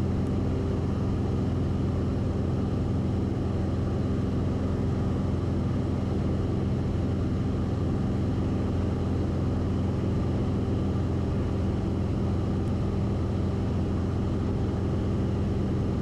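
Cessna 172RG's four-cylinder Lycoming engine and constant-speed propeller running at steady climb power, heard from inside the cabin as an even drone with several steady low tones.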